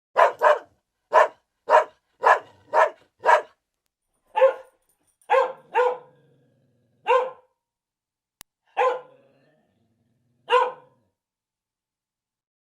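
A dog barking, about a dozen short single barks: several in quick succession in the first few seconds, then one every second or two.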